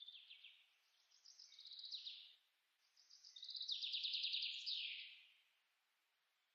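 A songbird singing three quick trilled phrases, each falling in pitch toward its end. The third phrase is the longest and loudest.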